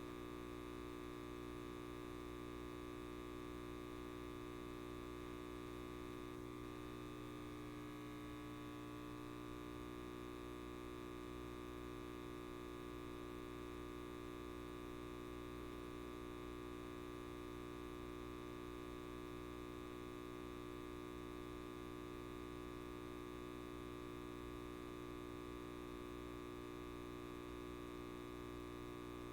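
Light bulb giving off a steady electrical buzz, a constant hum made of several fixed tones.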